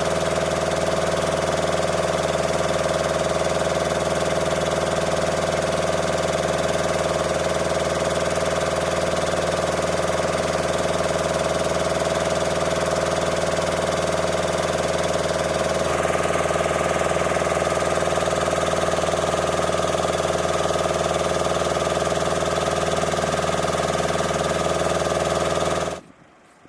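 An engine running steadily at idle, with a constant hum of many fixed tones. Its tone shifts slightly partway through, and it cuts off abruptly near the end.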